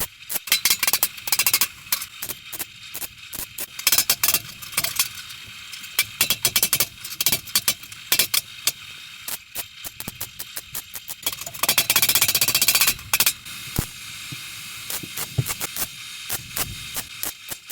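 MIG welder crackling in short spurts as a repair panel is tacked into a car's rear floor pan, with one longer run of crackle about twelve seconds in.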